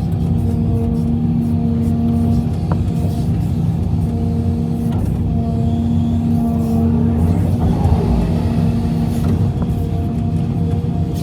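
Heavy diesel engine of a Hitachi EX350LC crawler excavator running steadily under load, with a held pitched tone over the engine noise and a few light knocks.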